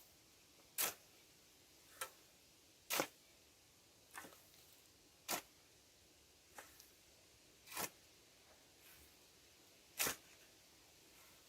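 A series of short, sharp clicks, about one every second or so, with a couple of longer gaps.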